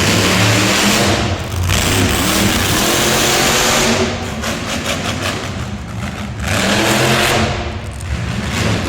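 Monster truck engine revving hard, its pitch climbing and falling again and again as the throttle opens and closes.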